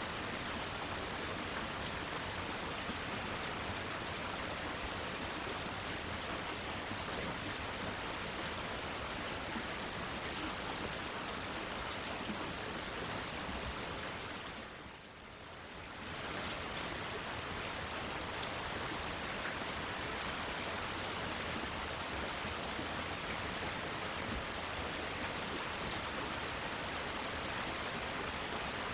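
Steady rain falling, an even hiss. It fades down briefly about halfway through and comes straight back up.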